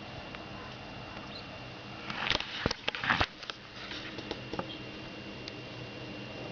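A great spotted woodpecker and a Eurasian nuthatch scuffling on wood: about two seconds in, a burst of fluttering and scratching mixed with sharp taps lasting about a second, then a few scattered taps.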